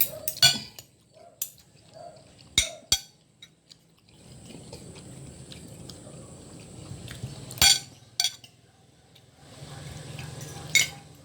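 Eating utensils clinking against dishes, about six sharp clinks at irregular intervals with soft rustling between.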